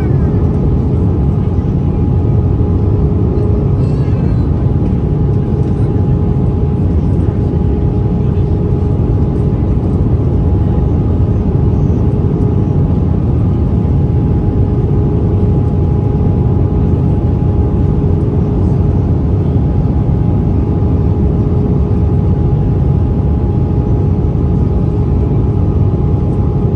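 Steady cabin noise of an Airbus A320-214 with CFM56 engines, heard from a window seat: a deep, even rumble of engines and airflow with two steady hum tones over it.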